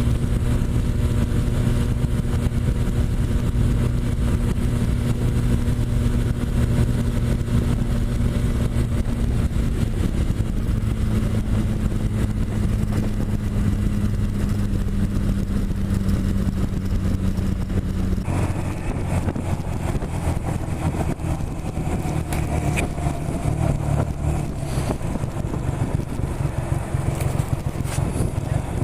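Motorcycle engine running steadily on the road, with wind noise on the microphone. The engine note changes about eighteen seconds in.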